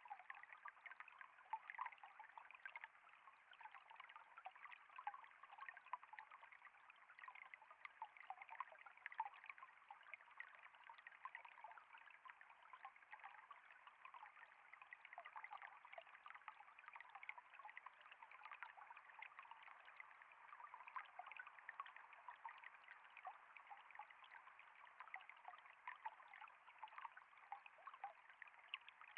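Water trickling steadily, a faint even rush flecked with many tiny droplet splashes.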